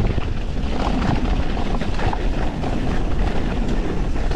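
Riding noise from a YT Industries Capra 4 mountain bike on a dirt trail: wind buffeting the action-camera microphone over a steady rumble of tyres, with small clicks and clatters from the bike over rough ground.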